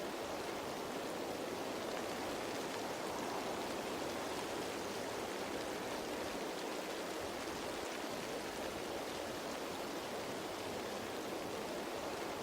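Steady rain falling on leaves, a dense even patter with no single drops standing out.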